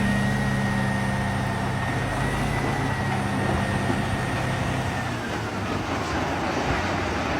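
Truck engine running with a steady low drone and a thin whine above it; about five seconds in the drone drops away and the whine falls in pitch as the engine winds down.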